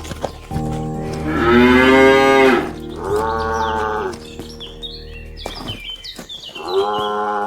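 Cattle mooing: a long, loud moo about a second in, a shorter moo right after it, and another moo near the end.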